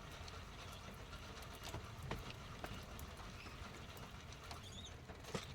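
Faint, irregular light ticks and taps over a steady low hiss.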